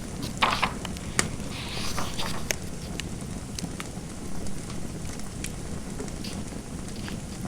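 Fireplace fire crackling: scattered sharp pops and clicks over a steady low rumble.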